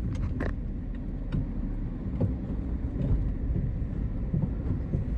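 Car rumbling along slowly, with steady low engine and road noise and a few light knocks and clicks.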